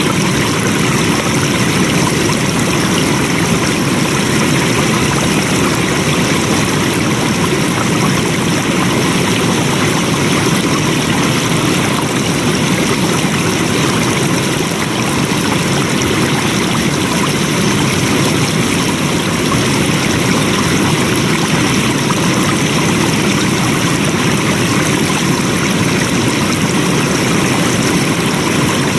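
Flowing water: a stream running in a steady, even rush.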